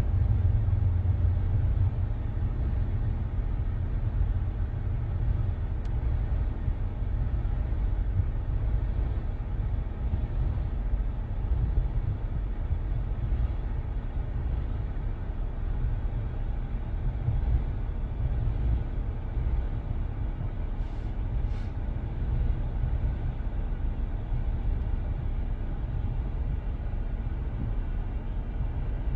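Long CSX freight train rolling past, a steady low rumble of its cars on the rails that holds even throughout.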